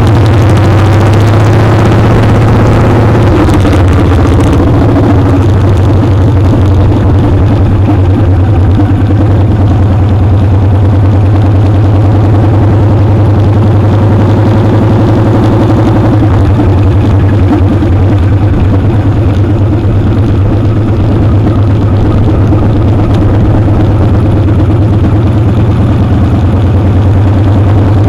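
Motorcycle engine running steadily under way, heard loud and close from a camera mounted on the foot peg; the engine note shifts slightly a few seconds in and again about halfway through.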